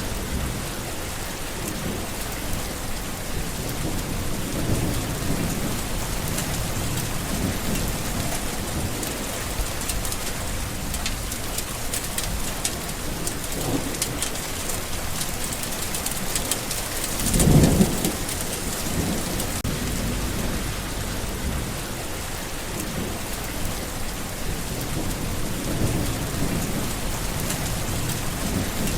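Steady rain falling, with low rolls of thunder every few seconds; the loudest roll comes a little after halfway.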